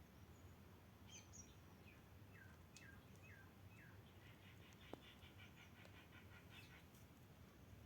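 Faint bird calls over a low steady hum: a few short chirps, four similar hooked notes, then a rapid pulsing trill lasting about three seconds, with one sharp click in the middle of it.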